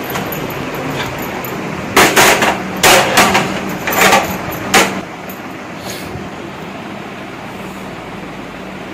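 Metal kitchen utensils clattering, about six sharp knocks and scrapes in quick succession while tandoori roti is roasted on a tawa, over a steady kitchen hum.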